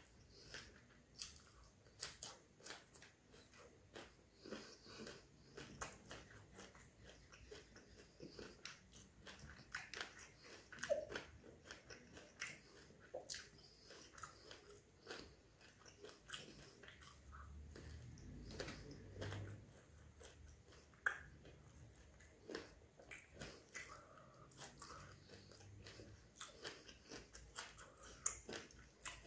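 Close-up chewing and crunching of fried prawn vadai with raw onion: a steady run of crisp bites and wet mouth sounds. The loudest crunches come about eleven and twenty-one seconds in.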